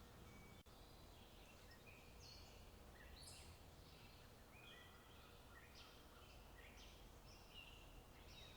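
Faint songbird singing: a quick jumble of short high chirps and trills, busiest from about three seconds in, over a low steady outdoor rumble.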